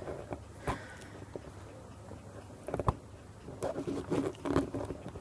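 Scattered light knocks, taps and rustles from a kitten playing and moving about, with one sharper knock about three seconds in.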